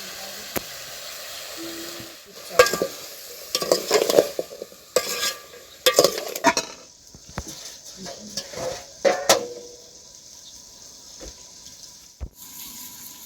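Food sizzling in a pan while a metal spoon stirs it, scraping and clinking against the pan in a busy run of strokes from about two and a half seconds in until about nine and a half seconds, then a steady sizzle alone.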